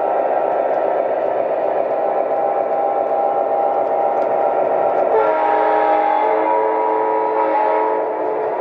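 Lionel O-gauge model diesel train running on the track with a steady hum, then the powered locomotive's electronic diesel horn sounds one long multi-tone blast from about five seconds in until shortly before the end.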